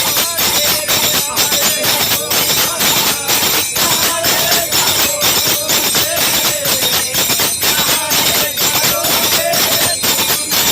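Commuters' devotional bhajan played live: a fast, steady beat of hand percussion with a wavering melody line over it.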